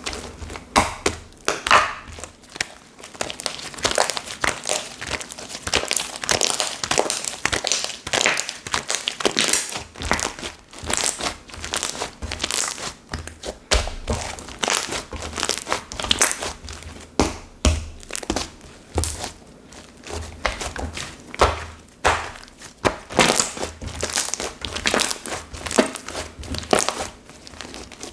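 Slime being squeezed and stretched by hand, making an irregular run of crackling clicks and small pops.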